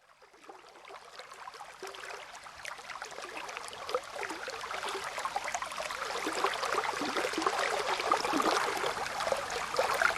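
Running water of a small stream, babbling and splashing, fading in from silence and growing steadily louder.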